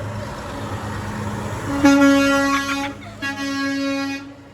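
Semi-truck air horn blasting twice, each blast about a second long with a short gap between. Before the blasts, the passing truck's engine and road noise.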